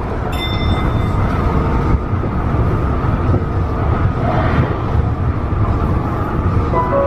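Tobu 50090 series electric train running at speed, heard from inside the car: a steady low rumble of wheels on the rails.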